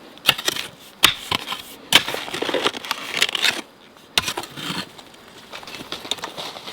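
Irregular sharp knocks, about four of them, with crunching and crackling in between.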